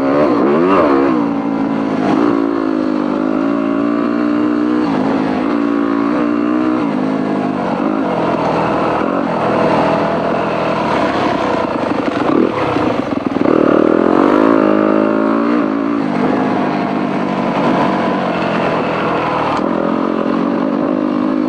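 Off-road dirt bike engine under way, its pitch climbing and dropping again and again as the throttle opens and closes, with the biggest climb about two-thirds of the way through.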